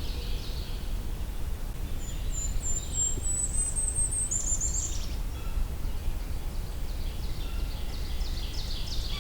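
Golden-crowned kinglet singing: a string of very high, thin notes climbing slightly for about three seconds, then dropping into a lower tumbling chatter. Near the end another bird gives a quicker, fainter run of lower notes, over a steady low rumble of background noise.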